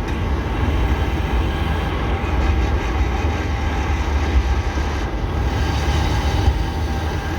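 1993 Mazda Miata driving, heard from inside the cabin with the centre console and shifter boot removed: a steady drivetrain and road rumble with a faint whine of several steady tones.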